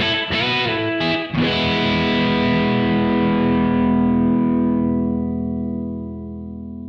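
Electric guitar strummed: a few quick chords in the first second or so, then a final chord left ringing and slowly dying away.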